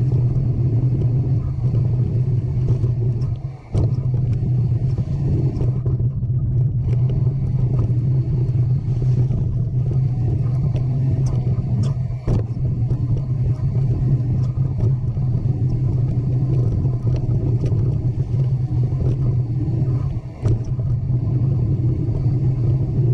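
Steady low rumble with scattered short clicks and rattles, dropping briefly three times.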